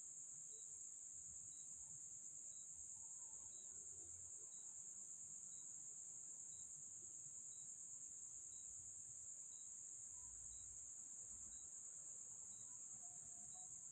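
Steady, faint high-pitched chirring of crickets at night, with a faint tick about twice a second.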